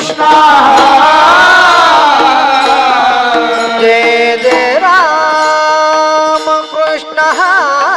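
Devotional bhajan music: a voice holds long, slowly sliding and wavering notes without clear words over steady held instrument tones, with a few sharp drum taps in the second half.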